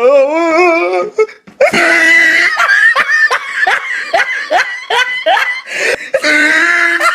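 A person laughing hard and loudly: a wavering cry, then held high notes broken by a quick run of short rising whoops.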